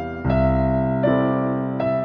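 Background music: slow, soft solo piano, a deep bass note struck near the start and then single notes about every three-quarters of a second, each left to ring.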